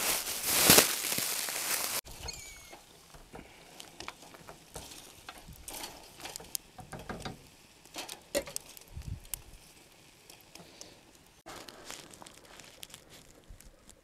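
Vegetables roasting on campfire embers: sparse, scattered small crackles and clicks. It opens with two seconds of louder rushing noise.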